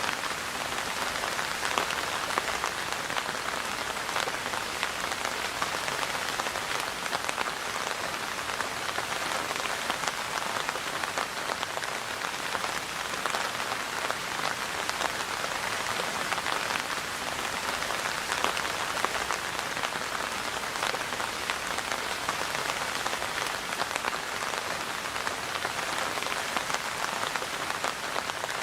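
Steady, even rain falling on a surface, a dense patter of many small drops.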